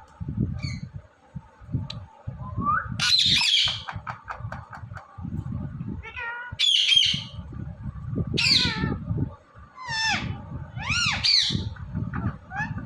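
Indian ringneck parakeet giving a series of short, shrill squawks, about six calls spaced a second or two apart from about three seconds in. A low rumble sits under them throughout.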